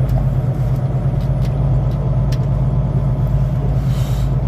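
Semi truck's diesel engine running steadily while rolling slowly, a low even hum with a few light clicks.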